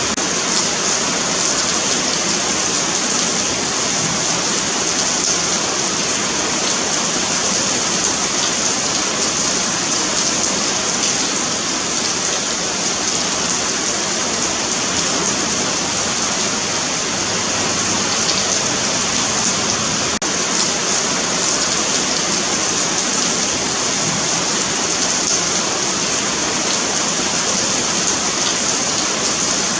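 Steady rain falling on a sidewalk pavement, a continuous even patter and hiss.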